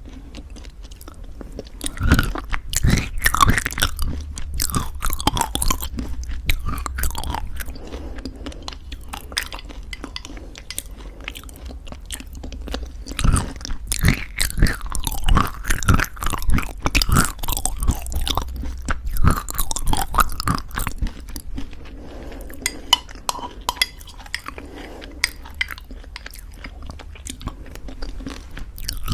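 Close-miked chewing of crunchy homemade granola in thick yogurt: crisp crackling crunches come in two bouts, from about two to seven seconds in and again from about thirteen to twenty-one seconds, with softer chewing in between.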